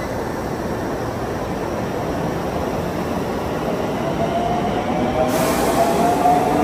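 Electric commuter train pulling out of the station and picking up speed alongside the platform. A rising whine joins the running noise of the wheels about four seconds in, and the sound grows louder toward the end.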